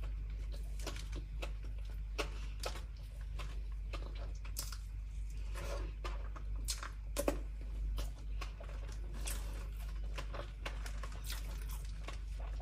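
Chewing with the mouth full and hands handling bread on a crinkly plastic snack wrapper: scattered soft clicks and rustles over a steady low hum.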